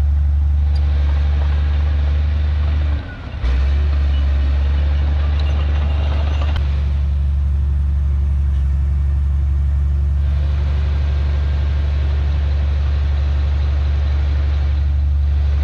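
Heavy diesel engine of earthmoving machinery running steadily with a deep, unchanging drone, briefly cutting out about three seconds in.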